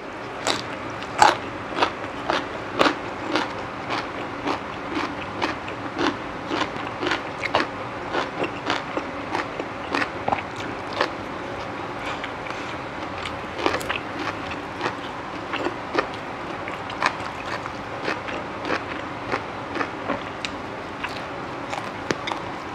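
Close-miked chewing of crunchy food: irregular crisp crunches, one or two a second, as crisp raw vegetables and pounded long-bean salad are bitten and chewed.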